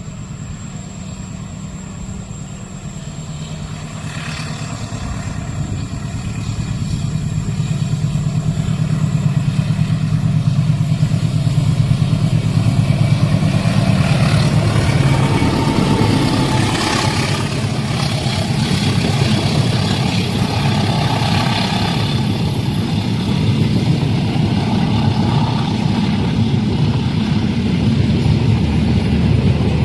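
Train passing a level crossing: a diesel locomotive's low engine rumble builds over the first ten seconds, then stays loud as the train runs by.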